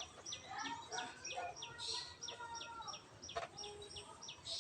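Long-tailed shrike (cendet) singing a fast run of repeated high notes, each sliding down, about four a second: its 'teot teot' song. Fainter, lower bird calls sound underneath.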